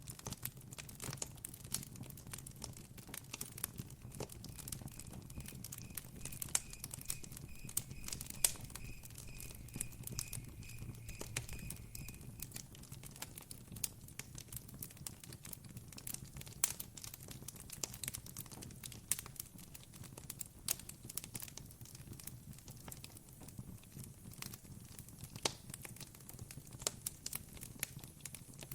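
Campfire crackling and popping in irregular sharp snaps over a steady low rumble of burning. A faint, evenly pulsed high chirping runs for several seconds in the first half.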